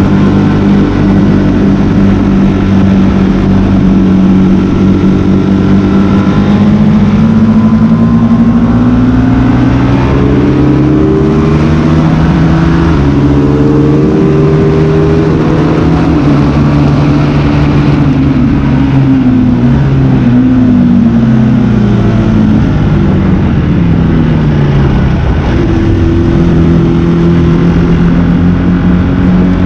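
Sport motorcycle engine under hard riding: the revs hold steady, climb for several seconds, fall away with a few quick dips as it slows and shifts down, then hold and rise again near the end.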